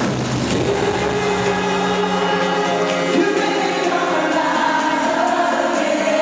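Music with several voices singing held notes.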